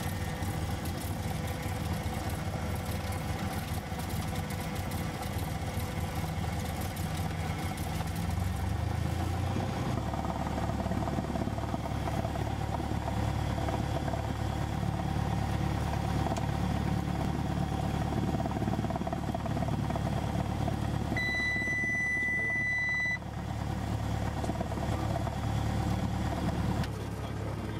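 Cessna 172 SP's four-cylinder Lycoming engine running, heard from inside the cabin; about ten seconds in its note shifts and strengthens. Near the end a steady high beep sounds for about two seconds.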